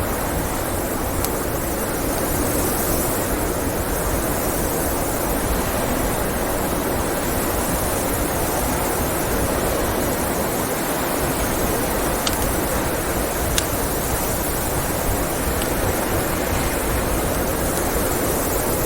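Steady rushing blizzard wind, with a few sharp pops from a crackling wood fire scattered through it.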